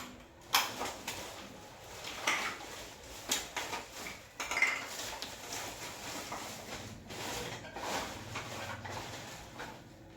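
Irregular clinks, knocks and rattles of hard parts and tools being handled, the sharpest knock about half a second in. A faint low hum comes in during the later seconds.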